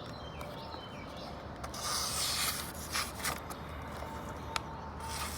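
Damascus Bowie knife blade slicing through paper to test its sharpness: two short papery slicing strokes, about two seconds in and again near the end, with a few light clicks between.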